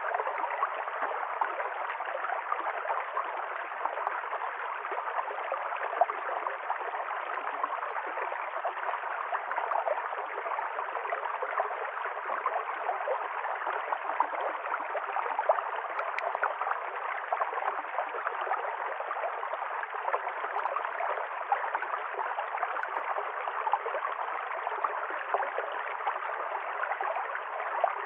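River stream flowing and gurgling over rocks, a steady rush of water with fine bubbling detail.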